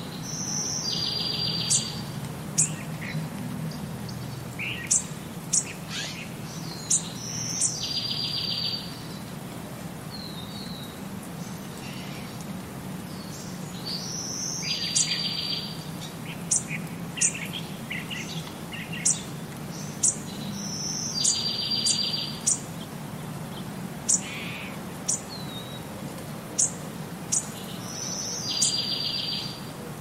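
Birds singing and chirping: one bird repeats a short song about every seven seconds, a high note followed by a buzzy trill, while other birds give quick sharp chirps in between. A steady low hum runs underneath.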